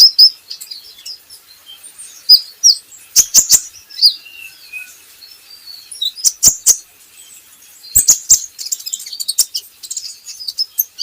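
Kolibri ninja (a sunbird) calling: irregular bursts of high, thin chirps and short twittering phrases, broken by several loud, sharp tick-like notes at uneven intervals.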